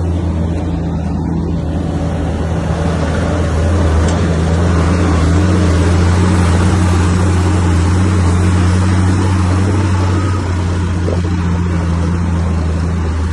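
Heavy diesel engine of earthmoving machinery running steadily, a low drone with a broader rumble that builds a few seconds in and eases slightly near the end.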